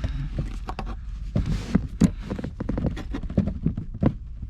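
Hands working a brake line into place among car parts: irregular small knocks and clicks, with a brief scrape about a second and a half in and a sharper knock just after.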